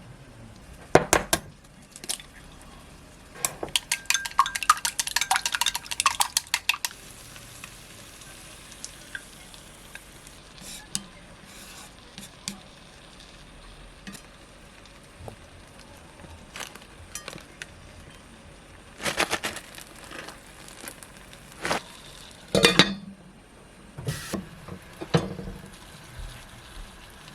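Metal utensils clinking and knocking against dishes. There is a quick run of ringing clinks a few seconds in, like a spoon stirring or mixing in a bowl, and then scattered knocks of tableware being handled.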